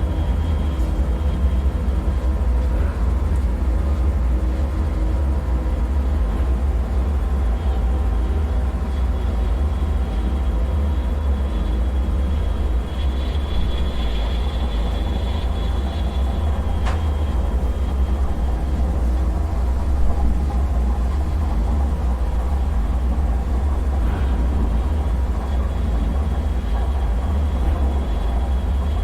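A steady, deep low rumble with faint high tones drifting over it and a couple of faint ticks: a droning dark-ambient bunker soundscape.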